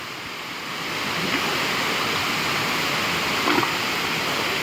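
Waterfall: a steady rush of falling water, getting louder about a second in.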